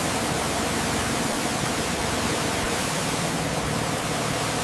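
Steady, loud hiss of even noise across all pitches, with no change in level.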